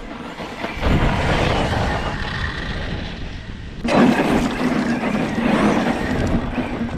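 Arrma Notorious 6S RC stunt truck driving, its brushless motor whining and its tyres rushing over the ground. The sound swells about a second in and jumps louder just before the halfway point as the truck is throttled up.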